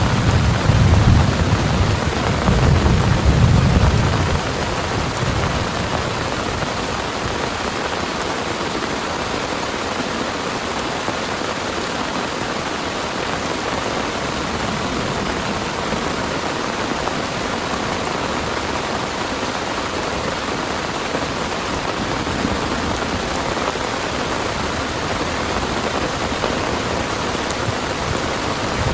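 Heavy rain pouring steadily, with a low rumble of thunder over the first few seconds that dies away about four seconds in.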